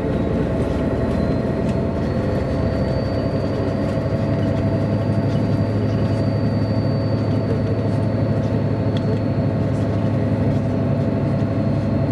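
A 1999 MAN A23 NG313 articulated city bus running steadily, heard from inside the bus. Its diesel engine and driveline make a constant low hum with a faint high whine that rises slightly in the first few seconds and then holds.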